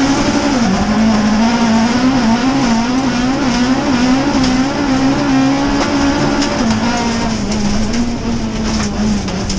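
Rallycross car's engine heard from inside the cockpit, running hard under racing throttle with its pitch wavering up and down as the driver works the pedal. Scattered sharp clicks come in over the last couple of seconds.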